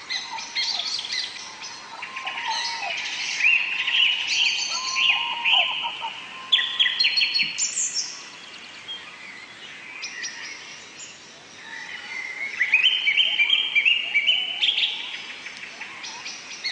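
Wild birds chirping and singing, in clusters of quick high chirps and short trills, quieter for a few seconds in the middle.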